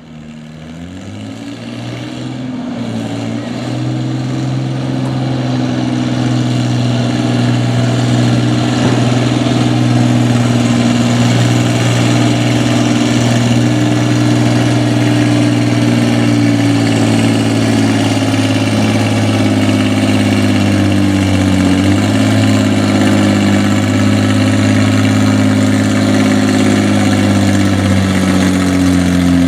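Pulling-class farm tractor's engine running at a steady high speed, fading in over the first few seconds and then holding an even pitch.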